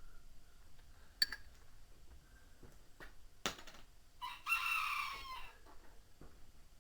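A few sharp knocks as a washing-machine part is tapped in around its outer edge, so the centre is not forced. A rooster crows once for over a second about four seconds in.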